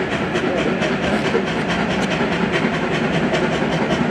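Steam locomotive C57 1 working under steam: a fast, even run of exhaust chuffs with steam hiss, the draft beat of the engine accelerating on a trial run after repairs to its damaged cylinder.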